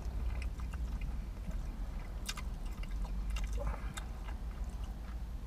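A man chewing a mouthful of pretzel bacon burger: soft wet chewing and mouth clicks, with a few sharper smacks in the middle, over a steady low hum.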